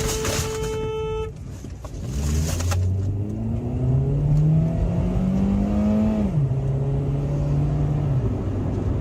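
A car engine accelerating, its pitch rising steadily for about four seconds, then dropping at a gear change about six seconds in and holding steady. A steady tone sounds for the first second or so, and a short burst of noise comes about two seconds in.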